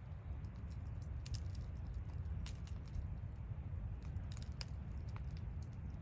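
Wood campfire crackling, with irregular small sharp pops over a steady low rumble.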